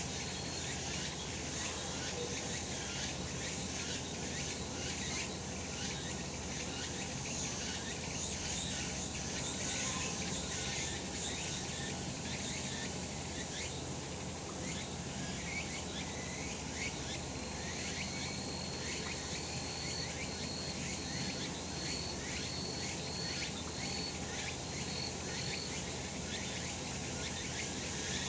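Cicadas singing in a dense, steady chorus with a fast pulsing buzz. In the second half a row of short, evenly spaced high notes runs for several seconds over it.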